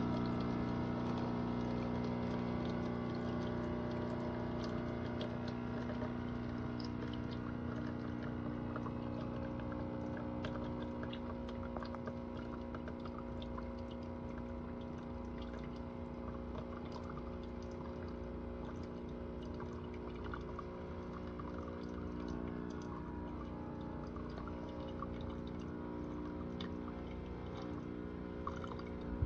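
Cuisinart Barista Bar coffee maker brewing: its pump hums steadily while hot liquid pours and sputters into a cup, with a crackle of small pops that builds after the first few seconds.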